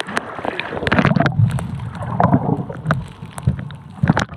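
Wind rumbling on the microphone, with splashing water and many scattered clicks and knocks.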